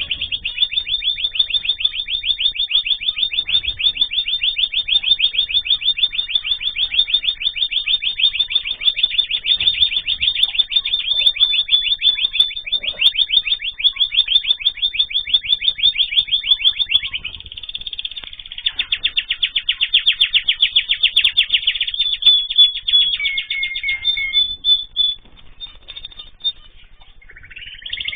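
Small cage songbird singing a long, fast trill of rapidly repeated notes, which breaks off about 17 seconds in and continues in shorter, varied phrases.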